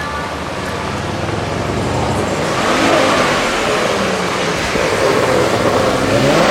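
Car engines being revved and accelerating, the pitch rising and falling with the throttle and climbing sharply near the end as a car pulls away.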